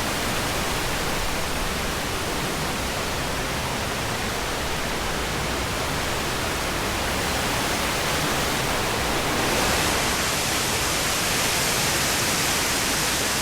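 Waterfall: a steady, full rush of falling water, its hiss growing brighter about two-thirds of the way through.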